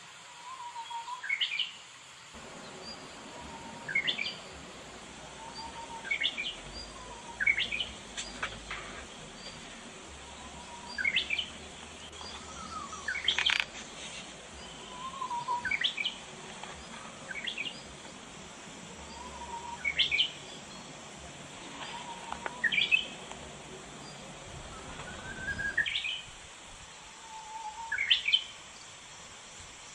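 A bird singing the same short phrase about a dozen times, one every two to three seconds: a low note followed by quick notes rising high.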